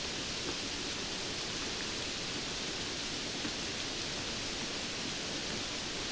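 Steady rainfall: an even hiss of falling rain with faint scattered drop ticks.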